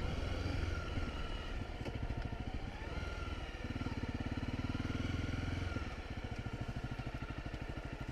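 Honda CRF250 Rally's single-cylinder four-stroke engine running at low revs, with a steady even beat. It grows a little stronger for a couple of seconds in the middle, then settles back.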